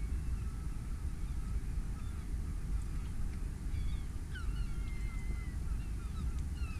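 Wild birds calling: a scatter of short chirps and whistles, with a longer, slowly falling whistle about five seconds in, over a low steady rumble.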